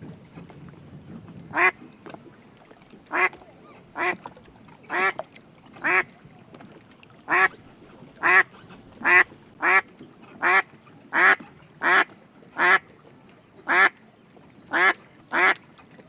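A duck quacking repeatedly: about sixteen short, separate quacks, roughly one a second, coming a little faster through the middle.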